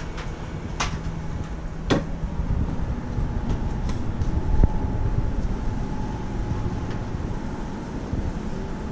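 Steady low rumble of a busy exhibition hall, with a faint steady hum and three short knocks over the first five seconds.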